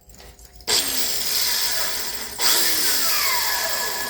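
Power tool with a wire wheel running in two bursts, scrubbing rust and corrosion off a brake caliper bracket. Each burst starts abruptly, about a second in and again midway, with a falling whine, and stops near the end.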